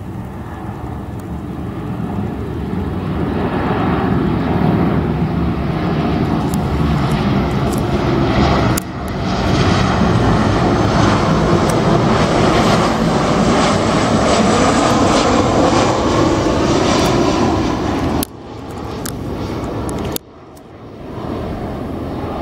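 Arriving airliner's engines, growing louder over the first few seconds and then staying loud. The sound breaks off abruptly a few times, near the middle and towards the end.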